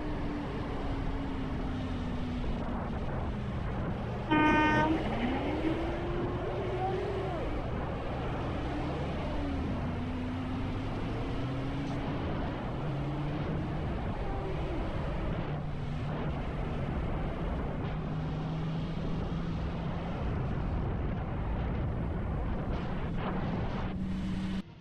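Motorcycle riding at freeway speed, with wind and road noise over an engine whose pitch falls and rises as the throttle changes. About four seconds in, a vehicle horn blasts once for about half a second.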